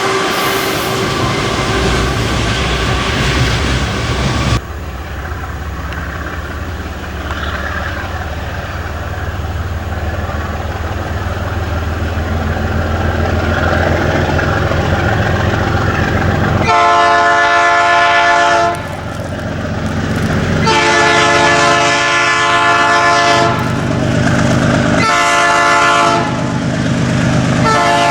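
A diesel freight train runs past with a low, steady engine rumble, then the locomotive's air horn sounds four blasts: long, long, short, long.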